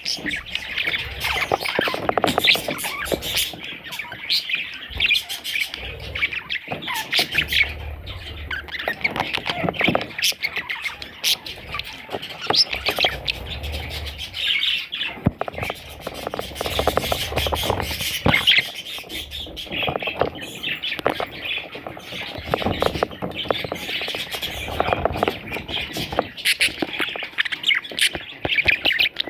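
Budgerigar chicks squawking and chirping almost without pause, with scattered clicks and low bumps mixed in.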